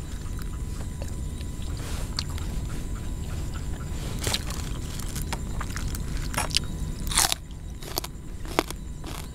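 Close-up eating sounds: a person biting and chewing fresh raw vegetables and leaves, with a run of sharp crunches from about four seconds in, the loudest near the seven-second mark, over a steady low rumble.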